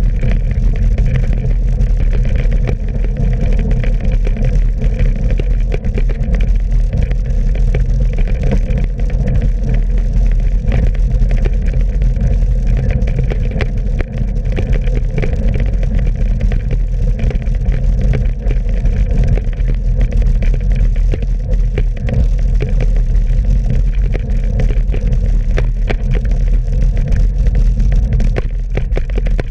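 Loud, steady low rumble of wind buffeting the microphone and tyre noise on a wet road from a moving bicycle, unbroken throughout.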